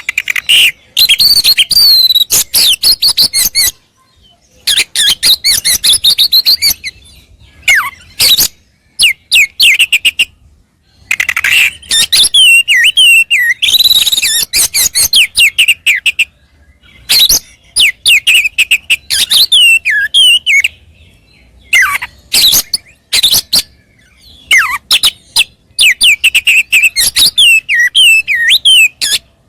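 Oriental magpie-robin (kacer) singing loud, fast phrases of varied whistles and chirps in bursts of a few seconds, each cut off abruptly by a short silence. This is a tutor recording for training captive songbirds.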